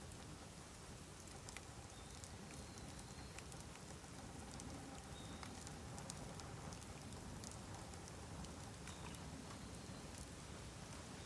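Bamboo burning on an open fire, crackling with scattered sharp pops and clicks over a steady hiss.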